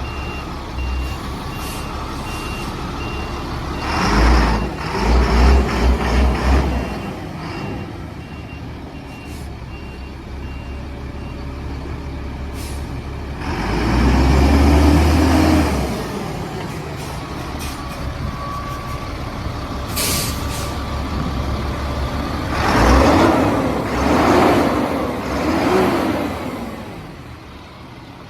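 The Cat 7.2L diesel engine of a 2001 Sterling L7500 dump truck running, its pitch rising and falling three times: at about 4 seconds in, about 14 seconds and about 23 seconds. A reversing beeper beeps steadily through roughly the first eleven seconds, and a short hiss of air sounds about 20 seconds in.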